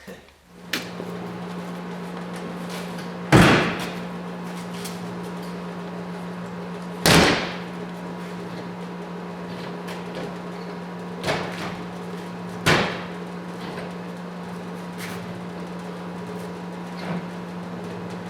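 Pickup truck topper's rear glass hatch, on newly fitted gas struts, being shut and latched: three loud slams, with lighter knocks between them. A steady low hum runs underneath.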